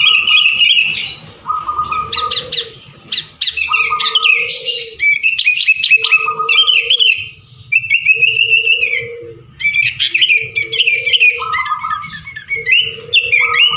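Sooty-headed bulbul (kutilang) singing busily and without pause, with quick chirps and short whistled phrases packed closely together. Lower notes repeat about every second and a half underneath.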